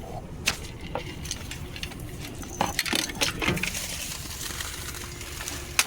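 Gear being handled while a tripod is pulled out of a car: a run of clinks and knocks, several close together in the middle, and a sharp knock near the end.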